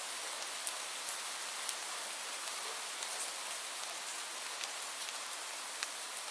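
Steady rain falling, an even hiss with scattered sharp drops tapping close by.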